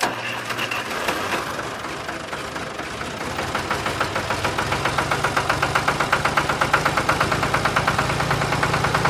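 Small engine of a miniature DIY tractor-and-pump rig running with a regular chugging pulse, growing a little louder and more even from about halfway through.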